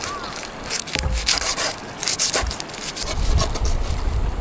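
Irregular scraping strokes on wood, with a low rumble coming in about three seconds in.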